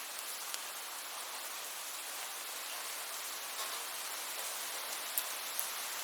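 Steady rain falling: an even hiss with scattered sharp drop ticks, two of them louder about five seconds in.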